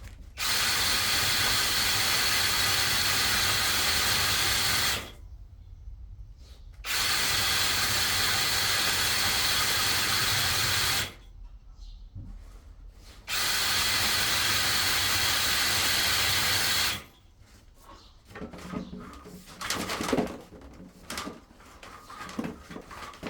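Drain-cleaning flexi-shaft machine spinning its cable in a sewer pipe, switched on and off three times in runs of four to five seconds, clearing leftover root and crud from a bend. Irregular knocking and rubbing follows near the end.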